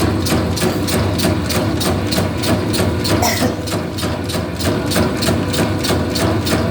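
Meatball-forming machine running: its motor hums steadily under an even, rapid clacking of about five strokes a second.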